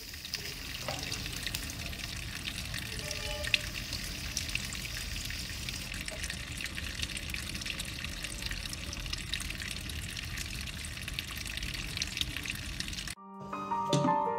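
Steady sizzling with many small crackles as shrimp, squid and egg stir-fry in a hot wok. It cuts off suddenly about 13 seconds in, and gentle piano music starts.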